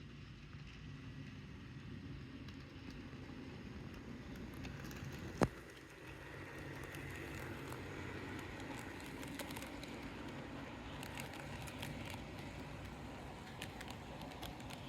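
HO scale model train running on its track: a steady low hum and rolling noise with scattered light clicks, and one sharp click about five seconds in.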